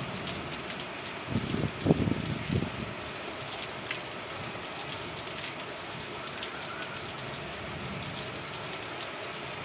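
Steady rain falling, an even hiss of many drops. About one and a half to two and a half seconds in, a few low thumps rise briefly above it.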